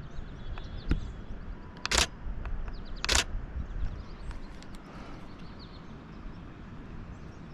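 Canon Rebel T7i DSLR shutter firing twice, about a second apart, with its mirror and shutter clacking sharply each time.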